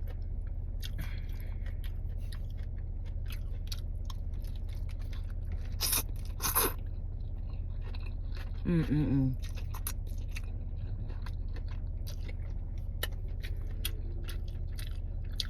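A person chewing food, with many small wet clicks of the mouth and two louder crunches about six seconds in. A short vocal sound comes a little past halfway. A steady low hum runs underneath.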